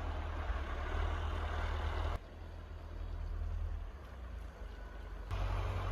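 Snowstorm wind rushing, with a heavy low rumble of wind on the microphone; the sound drops abruptly about two seconds in and comes back near the end.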